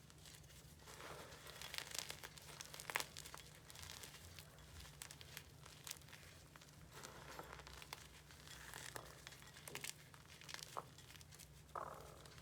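Crumbly block chalk being crushed, giving faint, irregular crackling and crumbling with scattered small clicks and brief soft crunches.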